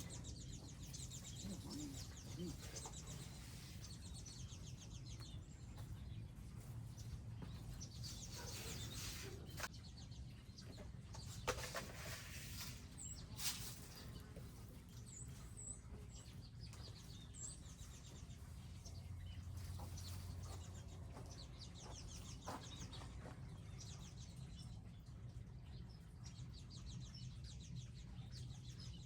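Faint outdoor birdsong from small wild birds at feeders: rapid high trills and chirps throughout, with a few thin whistled notes, over a steady low background hum. Two sharp short knocks or flutters stand out near the middle.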